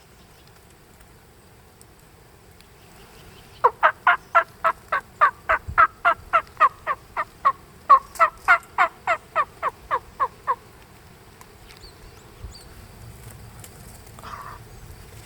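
Turkey yelping: a run of about two dozen sharp, falling notes, about three a second, starting about four seconds in and lasting about seven seconds.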